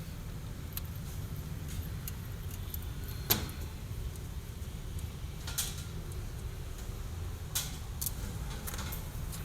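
Scattered metallic clinks and knocks of hand tools and engine parts being handled, the sharpest about three seconds in, over a steady low rumble.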